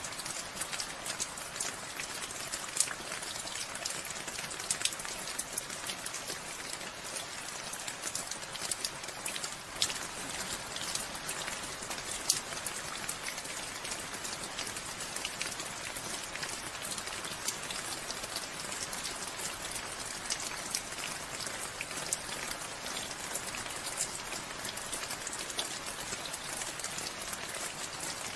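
Steady rainfall, a dense hiss sprinkled with the sharp ticks of individual drops striking a surface.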